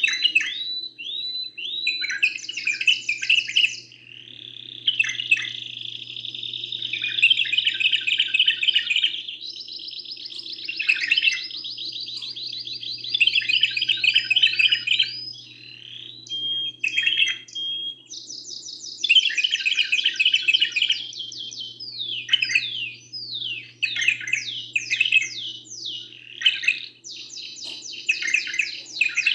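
Domestic canary singing a long, unbroken song of rapid trills and sweeping rolls, changing phrase every few seconds, with one held whistle about two-thirds of the way through. A steady low hum runs underneath.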